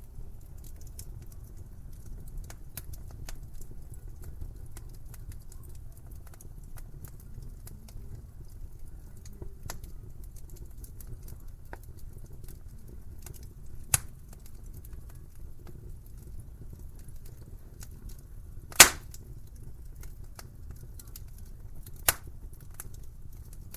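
Wood fire crackling in a fireplace: a steady low rumble of flames under a run of small crackles, with three sharp pops from the burning wood, the loudest about two-thirds of the way through.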